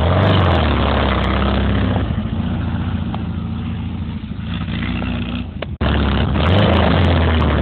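Engine of an off-road cage buggy (gaiola) running under throttle: loud at first, easing off in the middle, then loud again in the last two seconds after a brief sudden break.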